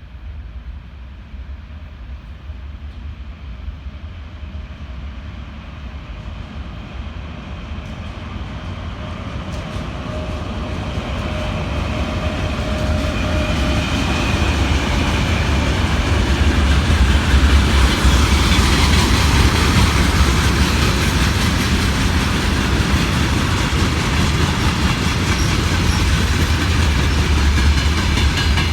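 A freight train hauled by a 2ES5K electric freight locomotive, growing louder as it approaches over the first fifteen seconds or so, then a steady rumble of rolling wheels and wagons with a low hum.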